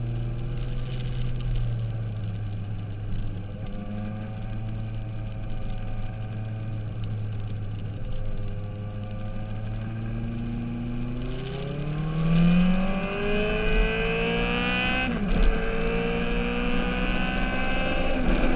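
Sport motorcycle engine under way, holding steady revs for about ten seconds, then accelerating with rising pitch. About fifteen seconds in the pitch drops sharply as it shifts up a gear, then it pulls up again, and the revs drop once more near the end.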